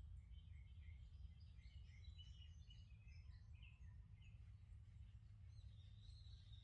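Faint songbirds chirping in a forest, many short high notes from more than one bird overlapping, over a low steady rumble.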